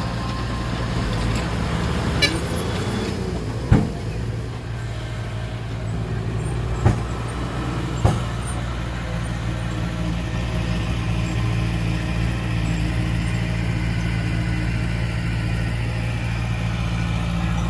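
Heavy diesel machinery engine running steadily, with four sharp metallic clanks in the first half.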